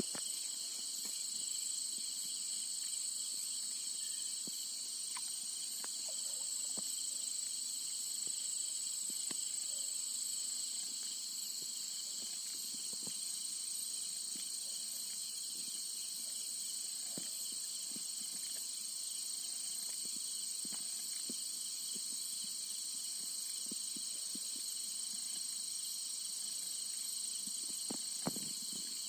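Night insects, crickets, chirring in a steady high-pitched drone, with a few faint ticks and knocks, one a little stronger near the end.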